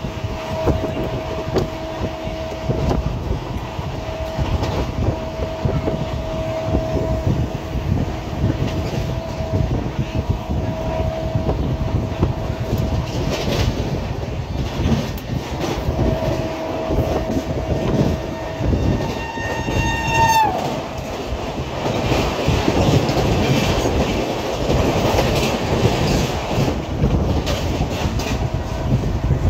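Express passenger train running at speed, with steady rumble and rhythmic clickety-clack of wheels over rail joints, and a steady tone that comes and goes. A train horn sounds about two-thirds of the way through and drops in pitch as it cuts off, after which the running noise grows louder.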